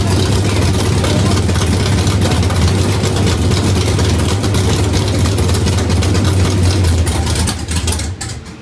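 Ford Mustang engine idling loudly and steadily, then shut off about 8 seconds in.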